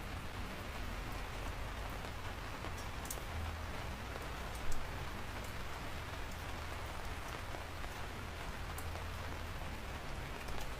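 Steady rain falling, an even hiss with a few sharp drop ticks and one brief louder tap about halfway through.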